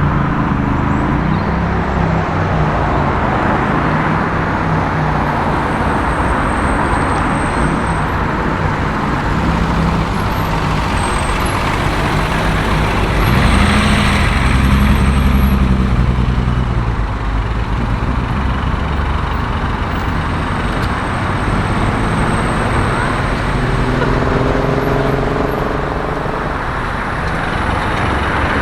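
Road traffic: car engines running and passing, with a louder pass about halfway through and an engine rising in pitch as it accelerates near the end.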